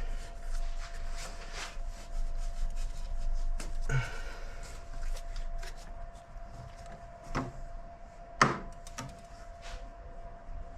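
Scattered light clicks, knocks and rubbing as connectors and hoses are worked loose from an engine's intake manifold by hand and with tools, with one sharp click about eight seconds in. A faint steady hum runs underneath.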